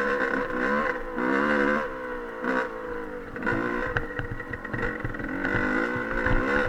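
Dirt bike engine being ridden, its pitch climbing and dropping several times as the throttle is opened and closed.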